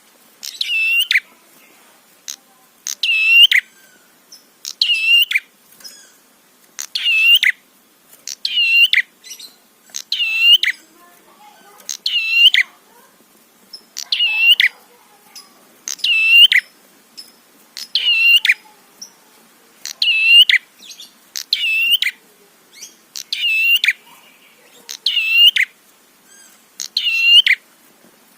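Prenjak (prinia) call, a short burst of quick high chirping notes repeated evenly about every two seconds. It is played as a training or lure call for caged prenjak.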